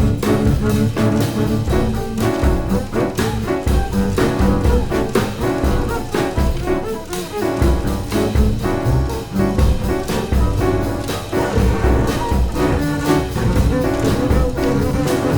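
Free-improvised jazz from a piano, double bass and drum trio: dense sustained low and mid-range tones with busy drum and cymbal strokes throughout.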